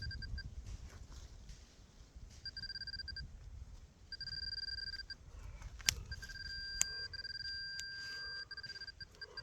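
Metal detector beeping with one fixed high electronic tone, in quick pulses that run into a steady tone for a couple of seconds, as it sounds over a target in the dig hole. Two sharp knocks come about six and seven seconds in.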